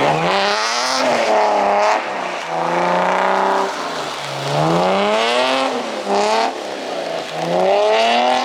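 Drift car's engine revving up and down over and over as the car is slid through the course, with short bursts of tyre squeal.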